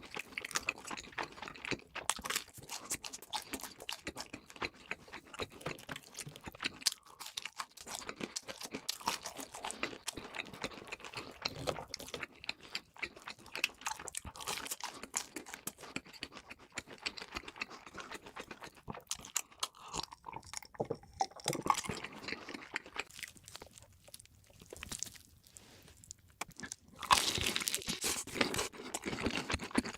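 Close-miked eating: crunchy bites and chewing of crisp fast food, a dense run of crackling crunches. It eases off for a few seconds and then turns louder near the end.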